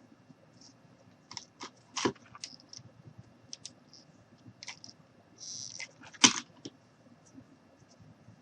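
Handling noise of rope being wrapped around a wine glass: scattered light clicks, taps and rubbing, with two louder knocks about two seconds in and about six seconds in, and a brief hiss just before the second.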